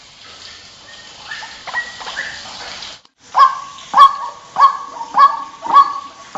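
White-breasted waterhen calling: faint calls over hiss at first, then, after a brief break about three seconds in, a run of loud calls repeated evenly about every 0.6 seconds.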